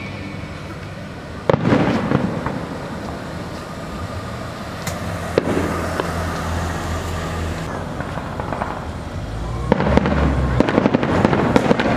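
Aerial firework shells bursting: a loud boom about a second and a half in with rumble trailing after it, smaller cracks near the middle, and a quick run of crackling pops near the end.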